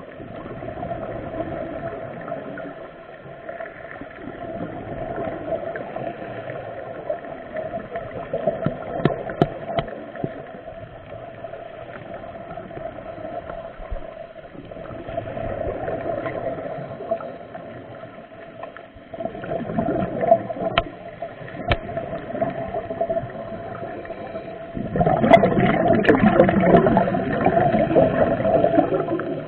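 Underwater sound of a scuba diver's exhaled bubbles gurgling from the regulator in swells every few seconds, the biggest near the end, over a steady hum.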